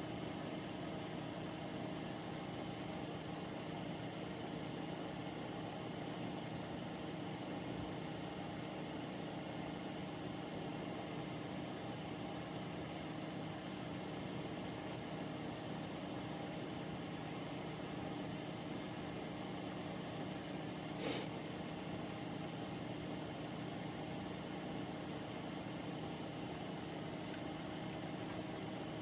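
Steady mechanical hum that holds one unchanging pitch throughout, with a single sharp click about two-thirds of the way through.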